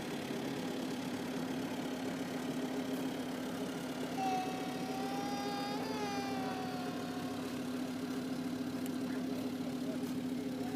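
Tractor engine running steadily. In the middle a drawn-out whining tone rises slightly, then falls, over about three seconds.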